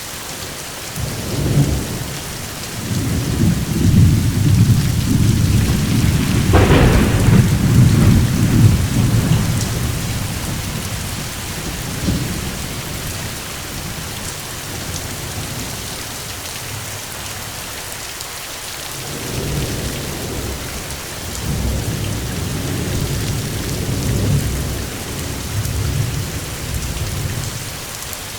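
Steady rain with rolling thunder: a long low rumble builds about a second in, peaks with a sharper crack near seven seconds and fades by ten, then a second rumble rolls through in the last third.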